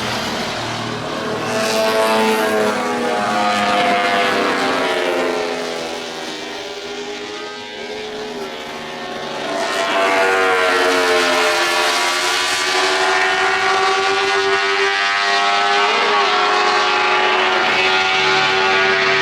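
Several motorcycle engines running at once, their pitches rising and falling as they rev. The sound dips in the middle, then gets louder from about ten seconds in and stays loud.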